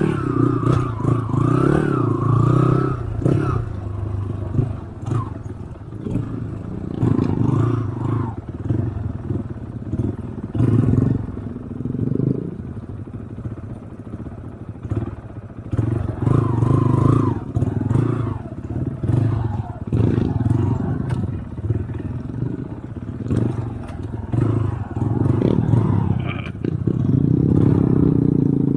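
Off-road motorcycle engine revving up and easing off again and again, with clattering.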